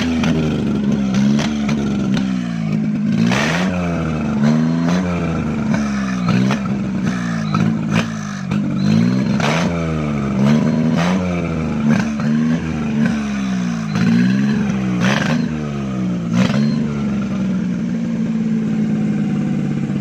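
Petrol car engine running out of the car, its throttle blipped over and over so the revs rise and fall about once a second, then settling to a steady idle near the end. A few sharp clicks sound over the engine.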